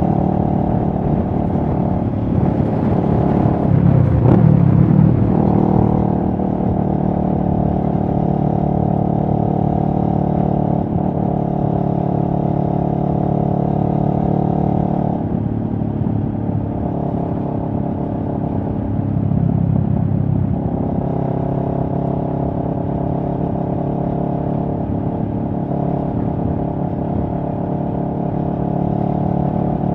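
A CFMoto 650NK motorcycle's parallel-twin engine running at a fairly steady speed. It swells louder for a couple of seconds near the start, and its note shifts for a few seconds midway.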